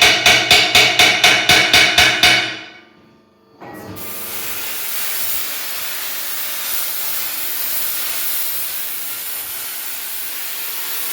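A fast run of hammer blows on metal, about five a second with a ringing tone, stops after about two and a half seconds. About a second later a steady compressed-air hiss starts and keeps on.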